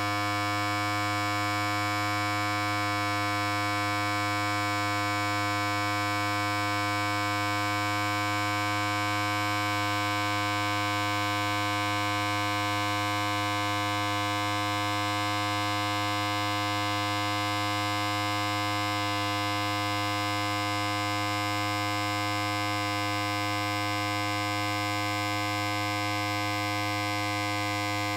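Electric hair clipper running continuously: a steady, even buzz over a strong low hum, holding the same pitch throughout.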